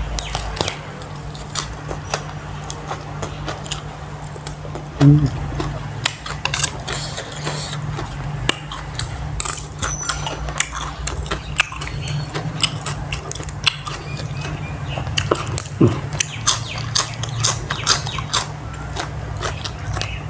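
Close-up eating sounds: chewing and crunching of food with many short clicks and taps scattered throughout, over a steady low hum.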